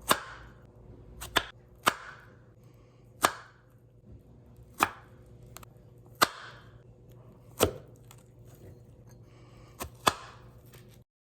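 Kitchen knife cutting through strawberries onto a cutting board: about ten sharp chops, spaced roughly a second and a half apart, two of them close together.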